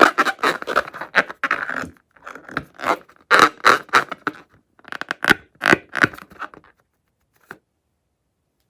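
Crunchy slime being squeezed and stirred, crackling and scraping. It starts as a dense run of crackles, breaks into separate crunches, and stops well before the end.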